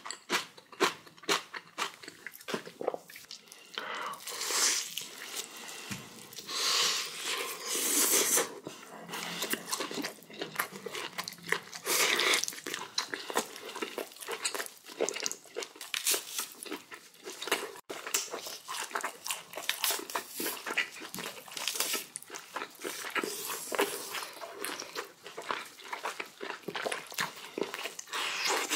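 Close-miked chewing and crunching of spicy napa cabbage kimchi eaten with boiled pork, as a run of small crisp bites and mouth sounds. A few louder rushing noises come in about four, seven and twelve seconds in.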